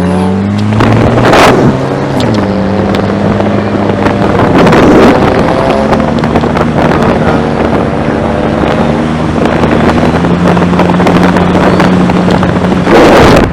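Car engine running hard at a near-steady pitch, with brief dips in pitch such as a gear change about two seconds in, under heavy wind buffeting on the microphone.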